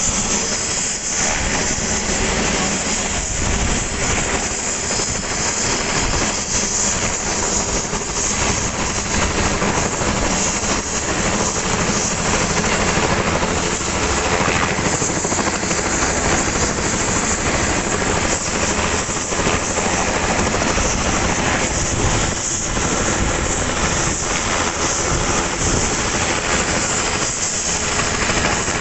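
Helicopter turbine engine and rotor running loudly, a steady dense noise that holds level throughout.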